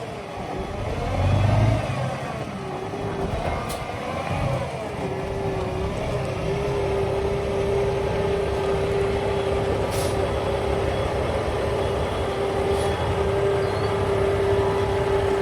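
Kenworth T800 road tractor's diesel engine running, its pitch rising and falling several times in the first few seconds, then settling into a steady drone with a held tone.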